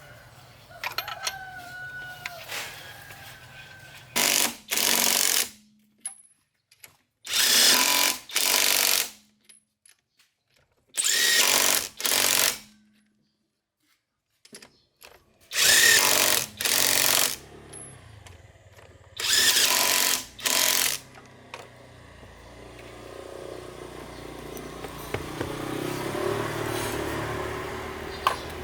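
A power tool, likely pneumatic, run in short bursts of under a second, mostly in pairs, about every three to four seconds, as when working wheel nuts or bolts on a car. Over the last few seconds a steadier machine-like noise slowly builds.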